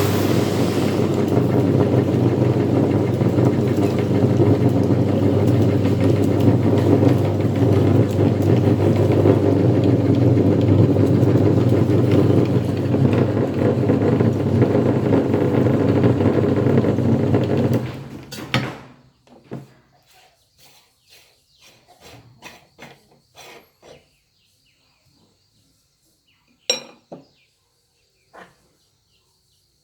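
Electric meat grinder's motor running steadily under load while grinding guava, then switched off abruptly about two-thirds of the way in. Scattered light clicks and knocks follow, with one sharp metallic clink near the end.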